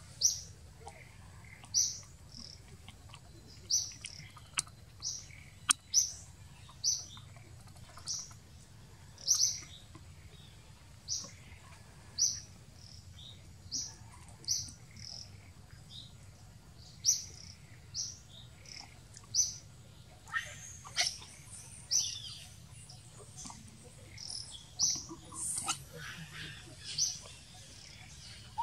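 A bird chirping over and over, one short high chirp about every second or so. Near the end, a few busier, noisier calls are mixed in.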